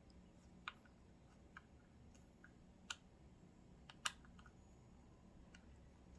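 Faint, scattered small clicks and taps, the sharpest about a second, three and four seconds in: metal parts knocking as a nut is fumbled for by feel at the back of a Sears Kenmore 148 sewing machine.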